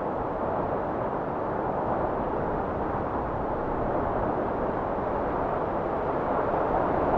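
Blizzard wind blowing steadily: an even, dense rushing noise with no gusts or lulls.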